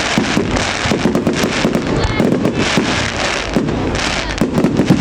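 Fireworks display: a dense, continuous run of bangs and crackles from bursting shells.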